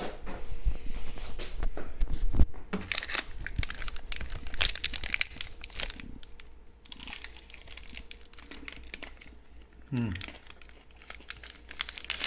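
Plastic wrapping crinkling and crackling as it is handled and torn open, in irregular bursts, with a sharp knock about two and a half seconds in.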